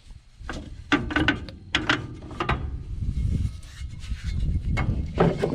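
Hand tools working on a truck's front wheel hub and brake parts: a string of irregular sharp metallic clicks and knocks, the thickest clusters about a second in and again near the end, over a low rumbling background.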